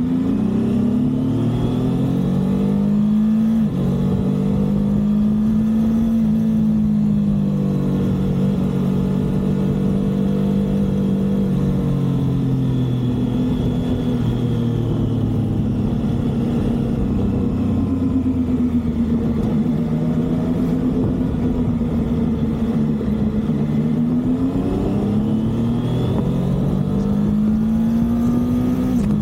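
Triumph motorcycle engine under way on the road, its pitch climbing and easing off repeatedly. It drops sharply at upshifts about three and a half seconds in and again near the end.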